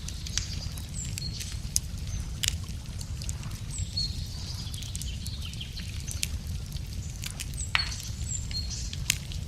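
Wood fire crackling, with sharp irregular pops and snaps, over a low steady rumble; small birds chirp now and then.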